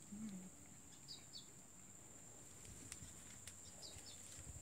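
Near-silent outdoor ambience with faint high bird chirps, a quick pair about a second in and another pair near the end.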